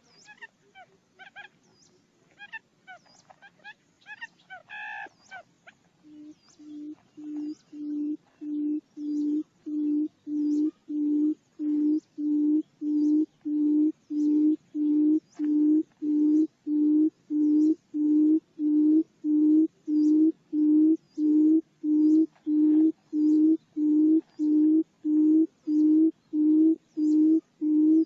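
Buttonquail lure call: a long series of low hoots, about one and a half a second, starting faint about six seconds in and growing steadily louder. Before the hoots, scattered faint higher chirps.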